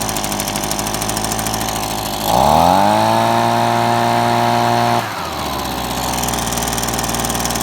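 Small two-stroke engine of a PB265L handheld yard machine idling. About two seconds in it is revved up sharply and held high for about two and a half seconds, then drops back to idle.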